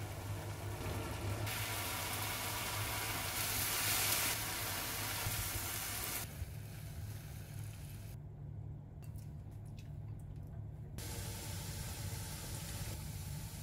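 Food sizzling as it fries in a pan, over a steady low hum, in short clips that change abruptly several times; a few light clicks a little past the middle.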